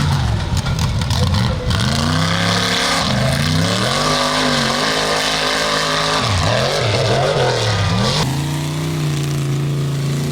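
Truck engine revving up and down several times, then settling to a steady speed about eight seconds in.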